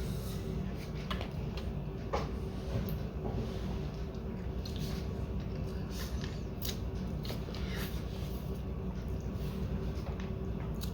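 Someone chewing a mouthful of soft, warm food: scattered soft wet mouth clicks and squishes over a steady low room hum.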